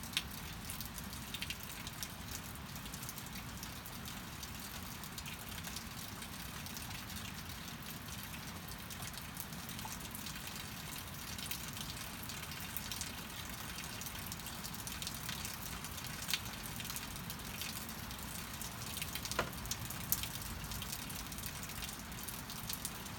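Steady rain falling, with scattered raindrops ticking and a few louder drips about sixteen and twenty seconds in.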